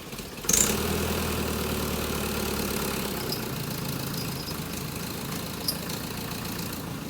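Truck engine running steadily. It comes in suddenly louder about half a second in, then eases down after about three seconds while it keeps running.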